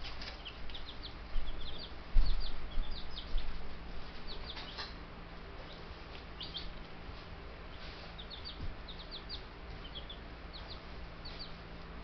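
Baby chicks peeping: many short, high chirps in scattered clusters, with a few low thumps in the first few seconds.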